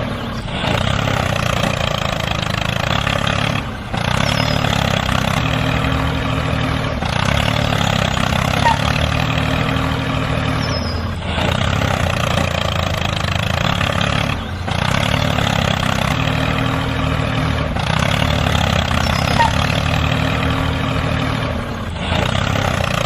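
Tractor engine running steadily, in a pattern that repeats every three to four seconds with a brief dip between repeats.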